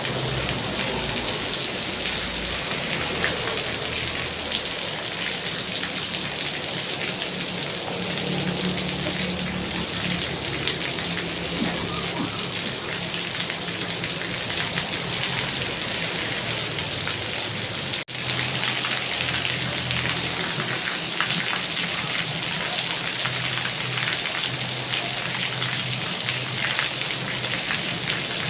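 Heavy rain falling steadily, with scattered drops striking a surface. The sound cuts out for an instant about two-thirds of the way through, then resumes.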